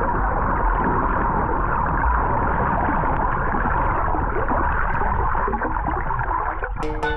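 Muffled underwater sea ambience: a steady rushing and gurgling of sea water heard from below the surface while freediving, with the high sounds cut away.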